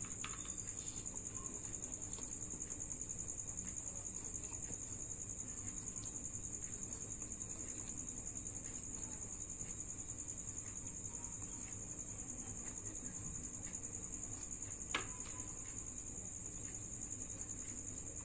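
A steady, high-pitched, finely pulsing trill like an insect's, with one sharp click about fifteen seconds in.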